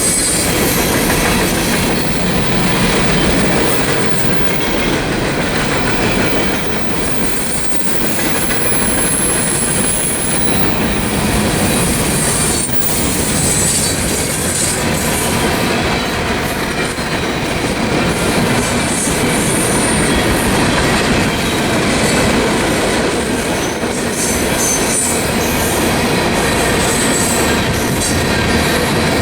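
Freight train cars rolling past, steel wheels clattering on the rails, with high-pitched wheel squeal coming and going.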